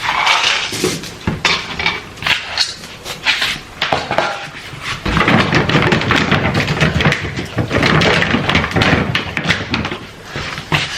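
Household handling noises: a string of short knocks and clicks over a rustling noise that grows fuller from about halfway through.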